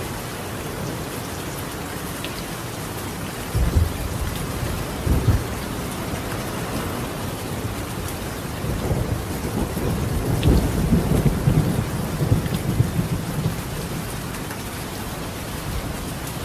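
Steady rain falling on a tiled roof, with thunder: two short low rumbles a few seconds in, then a longer, louder rolling rumble around the middle.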